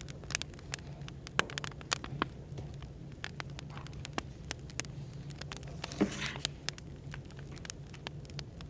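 Firewood fire crackling with sharp, irregular pops, over a steady low hum of cafe background noise. A louder rush of crackling comes about six seconds in.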